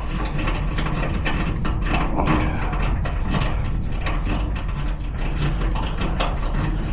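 Rapid, continuous mechanical clicking and rattling of a locksmith's tool working in a garage door lock cylinder, over a low motor-like hum.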